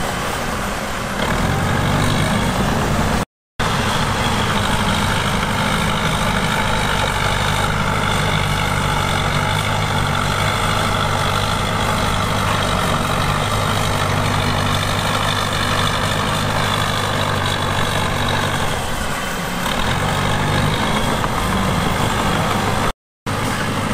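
Heavy diesel engine of earthmoving machinery running steadily, easing off briefly twice. The sound cuts out for a split second twice.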